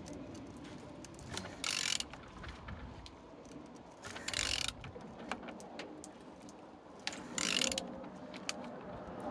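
A used engine being turned over by hand, the turning tool clicking and rasping in three short bursts about three seconds apart. The engine turns freely, a sign it is not seized.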